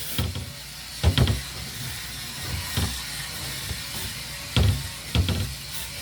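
Scrubbing and wiping inside a refrigerator with a wet soapy cloth: a steady faint hiss broken by four dull knocks as things bump against the shelves and walls.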